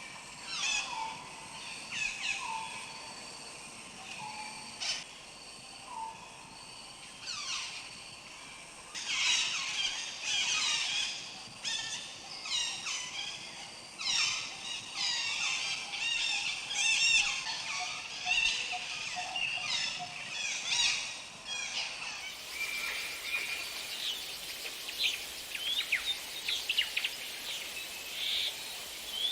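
Birds singing and calling: many short down-sweeping whistles and chirps, thickening into a busy chorus partway through. About three quarters of the way in, the recording changes to another one with a steady hiss under the calls.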